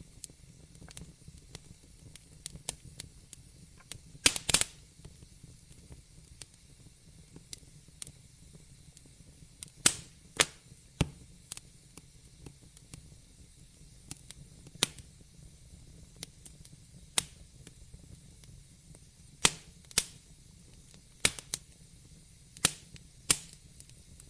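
Wood fire crackling: irregular sharp pops and snaps over a faint low hiss, with a quick cluster of loud pops about four seconds in and more loud snaps scattered through the rest.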